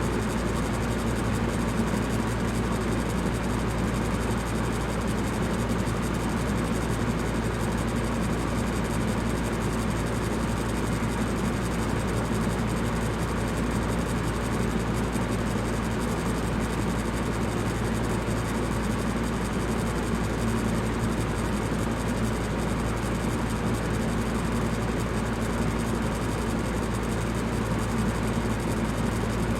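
Electric fan running steadily: a constant whooshing hum with a strong low drone and a few steady low tones.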